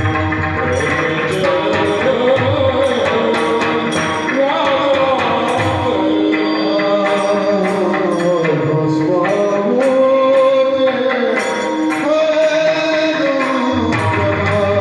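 Devotional Marathi kirtan singing: a male voice holds long, gliding melodic phrases over a steady drone and an even rhythm of jingling percussion.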